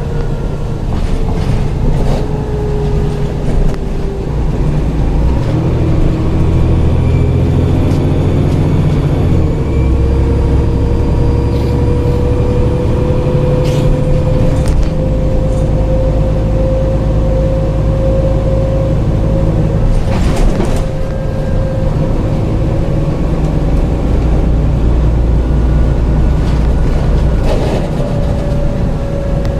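Dennis Trident double-decker bus with a Voith gearbox running along, its low diesel note shifting every few seconds, with a steady turbo whistle that climbs slowly in pitch. A few short knocks or rattles come through, loudest about two-thirds of the way in.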